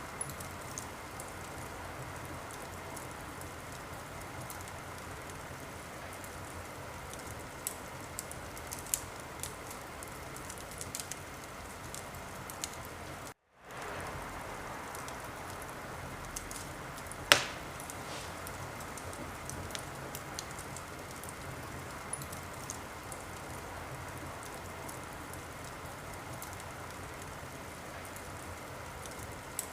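Wood fire crackling in a fireplace: a steady hiss with scattered small pops and one sharp, loud pop a little past the middle. The sound drops out completely for a moment just before the middle.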